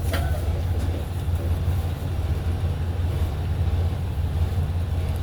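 Semi truck's diesel engine running at a steady low idle, a deep even drone.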